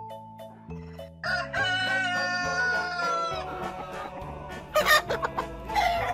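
A rooster crowing once, a single long call of about two seconds that drops in pitch at its end, over background music with a low, slowly changing bass line. Near the end come two short, loud bursts.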